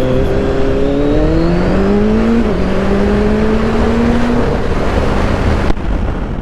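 Sport motorcycle engine accelerating hard, its pitch climbing, then dropping as it shifts up about two and a half seconds in and climbing again before holding steady, with heavy wind rush.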